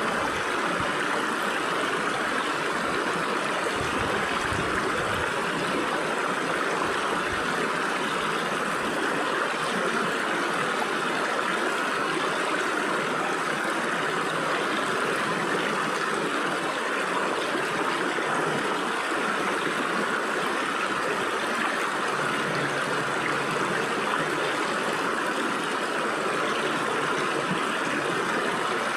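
Stream water flowing and splashing between rocks: a steady, even rushing with no breaks.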